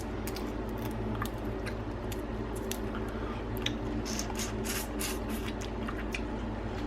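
Cooked crab being picked apart and eaten by hand: scattered small clicks of shell and wet squishing, bunched together about four to five seconds in, over a steady low hum.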